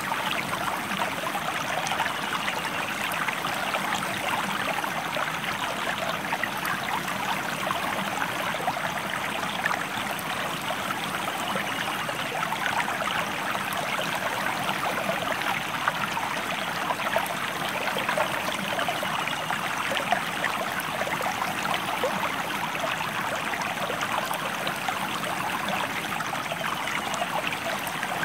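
River or stream water flowing steadily, a continuous rush with many fine splashes running through it.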